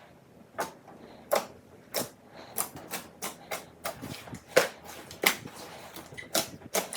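Slime being squeezed and pressed by hand, giving a series of sharp, irregular pops and clicks, about two a second.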